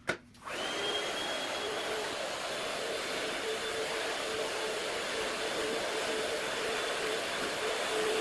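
Vacuum cleaner switched on with a click, then running steadily with a faint hum, played back at double speed.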